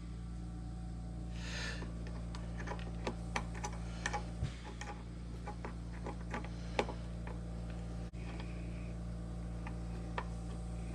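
Scattered light metallic clicks and taps of a screwdriver and small parts as a flathead set screw is fitted into a Framon key machine, over a steady low hum. The clicks come thickest in the first half, then thin out.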